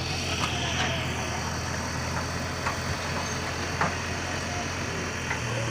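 An engine running steadily at idle, with a few short light knocks and clicks on top.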